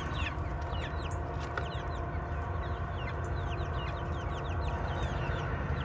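Several hens calling over one another: many short, falling chirps and clucks, repeated without a break, over a steady low hum.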